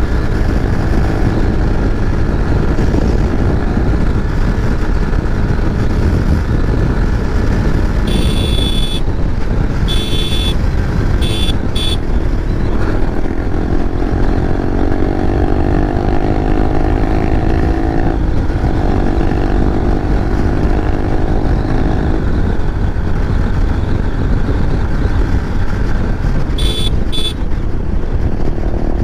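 Motorcycle riding along a road, with heavy wind rush on the microphone and engine drone. Partway through the engine note climbs steadily for several seconds. A run of short horn beeps sounds about a third of the way in, and two more come near the end.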